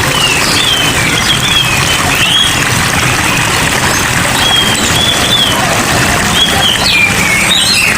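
Steady hiss of falling rain with small cage birds chirping over it, short high chirps coming every second or so.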